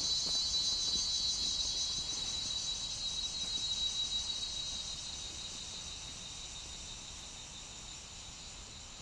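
Chorus of insects, crickets or cicadas, a dense high pulsing chirr that slowly fades away over the seconds.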